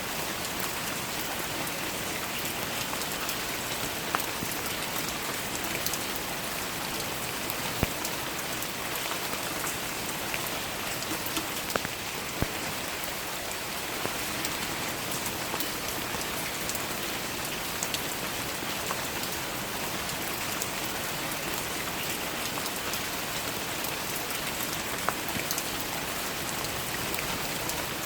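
Steady rain falling, an even patter, with a few sharper single drops standing out now and then.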